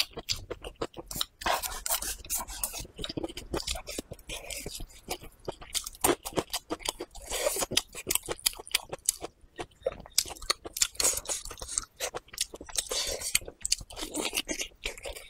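A person chewing and biting braised pig trotter close to the microphone, with many quick mouth clicks all the way through.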